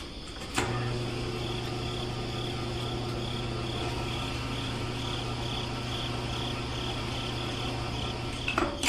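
A small electric motor running with a steady buzzing hum for about eight seconds, starting with a click just after the beginning and stopping near the end.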